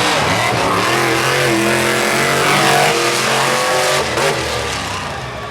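Monster truck engines, supercharged V8s, running loud and revving, their pitch rising and falling. The sound eases off a little after about four seconds.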